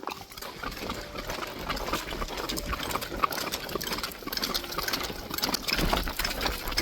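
Horses walking along a trail, hooves clopping and knocking on the ground in a busy, continuous run of clicks, with a low rumble underneath.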